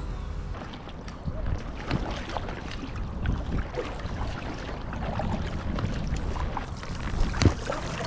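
Oars working an inflatable raft on a lake: water splashing and dribbling with irregular small knocks, and wind on the microphone. A sharper knock comes near the end.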